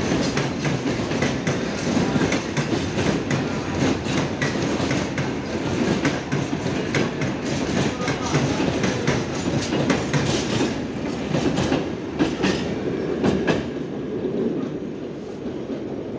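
Freight train of covered hopper wagons rolling past, a steady rumble with the wheels clacking over rail joints. The sound fades near the end as the last wagons move away.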